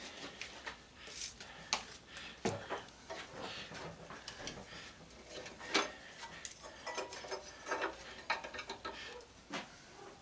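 Irregular light clicks, small metal taps and scrapes of hand tools working on the screws and metal parts of a belt/disc sander being taken apart.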